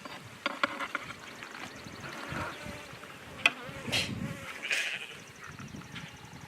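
Honey bees buzzing around an opened hive, with a few clicks and knocks; the sharpest knock is about three and a half seconds in.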